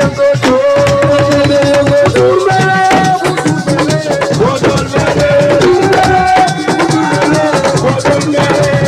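Live Senegalese assiko band music: hand drums and rattles keep a dense beat under a melody of long held notes that bend in pitch.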